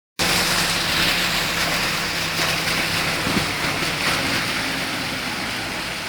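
Steady hiss of rain and tyres on a wet road, with a faint low vehicle hum under it for about the first half.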